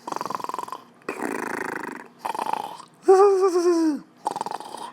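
A man making rough, rattly animal-like vocal noises in short bursts, with a wavering sung call about three seconds in that falls away at its end.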